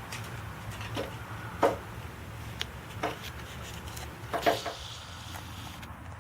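A bird striking and tapping at a window pane from outside: a few sharp, irregular taps on the glass, one pair coming close together.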